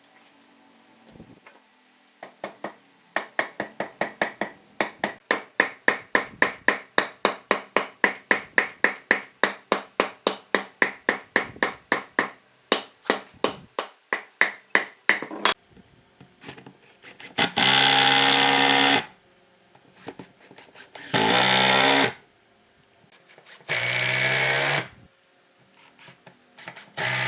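A long run of sharp, evenly spaced blows, about three a second, as in hammering on wood. Then an electric drill runs in four bursts of about a second and a half each, with pauses between.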